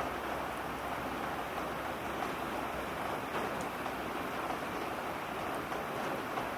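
Heavy, torrential rain falling: a steady hiss with a few faint drop ticks.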